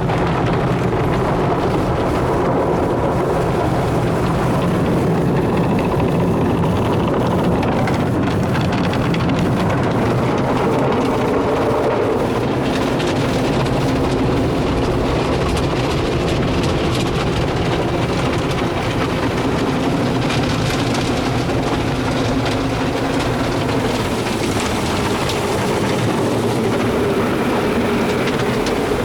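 MacNiel tunnel car wash running, heard from inside the car as it rides the conveyor: steady spraying and wash-machinery noise over a low, even hum.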